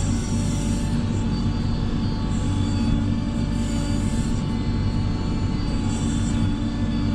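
A steady mechanical hum, running evenly with several held pitches and no change in speed.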